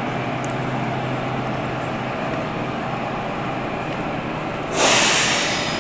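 XPT passenger train at the platform with a steady rumble and a low hum. Near the end a sudden loud hiss of air cuts in and fades over about a second.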